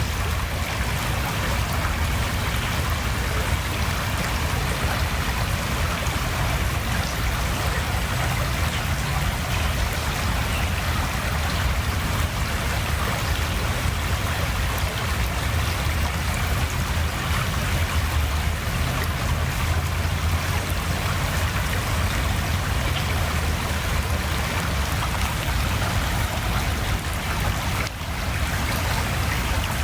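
Steady rushing water noise, unbroken, with a low rumble underneath.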